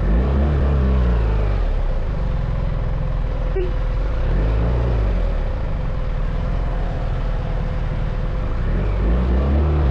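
BMW R1300 GS's boxer-twin engine running under way, its note rising and falling a few times as the revs change, with a short click about a third of the way in.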